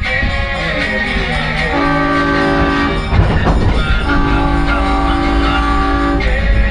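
Train horn sounding two blasts, a chord of several tones held about a second and then about two seconds, over the steady low rumble of the train running.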